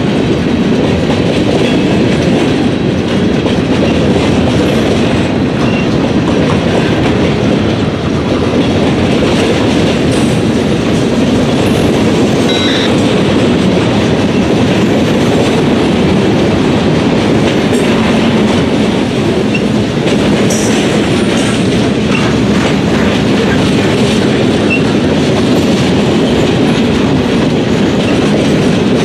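Freight cars (boxcars and covered hoppers) of a mixed freight train rolling past at close range, a steady rumble with wheels clattering over the rail joints. A brief faint wheel squeal rises above it about halfway through.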